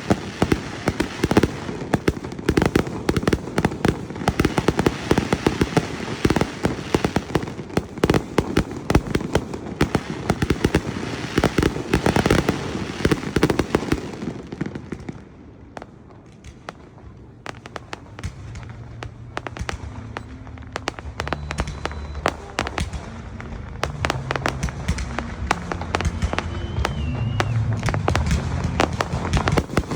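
Fireworks display: a dense barrage of rapid bangs and crackling that thins to a brief lull about halfway through, then picks up again with scattered bangs.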